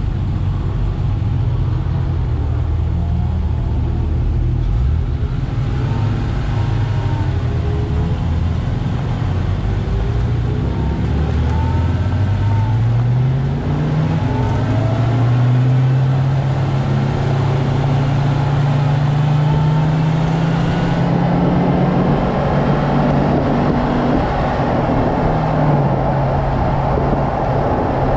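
Car engine running at low revs while the car crawls forward, rising in pitch about halfway through as it pulls away. Road and wind noise grows toward the end as the speed climbs.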